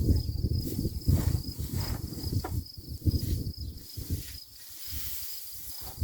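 Insects chirring outdoors in a steady, pulsing high trill, over irregular low rumbling and rustling noise that is loudest in the first few seconds and dies down after about four seconds.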